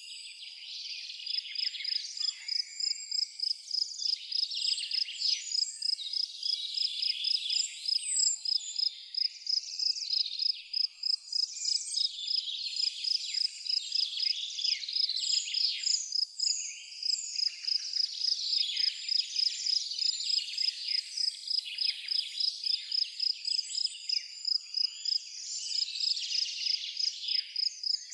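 A cricket chirping steadily in evenly spaced pulses, about three a second, over a dense chorus of songbirds singing varied chirps and warbles.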